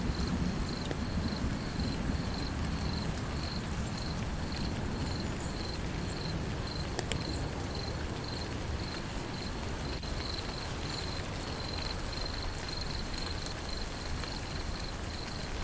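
Steady rain hiss with an insect chirping in a regular high-pitched pulse, about two chirps a second. A low thunder rumble dies away in the first second or two.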